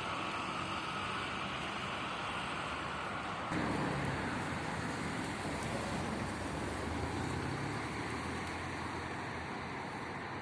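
Steady road traffic noise, with a louder low rumble setting in about three and a half seconds in as a vehicle comes closer.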